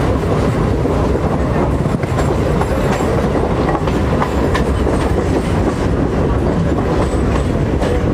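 Electric multiple-unit suburban train running at speed, heard from on board: a steady loud rumble of the wheels on the track, with scattered clicks of wheels clattering over rail joints.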